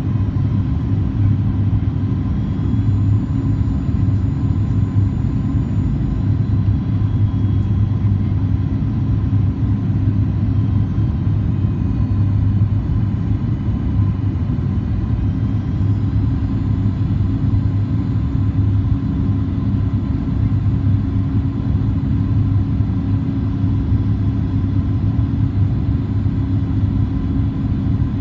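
Cabin noise inside a Boeing 737 MAX 8-200 in flight: a steady low drone of its CFM LEAP-1B engines and airflow, with a faint steady higher tone and no changes.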